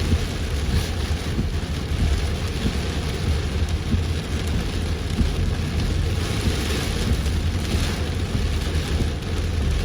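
Heavy rain falling on a moving car, a steady rush of rain with a constant low rumble underneath.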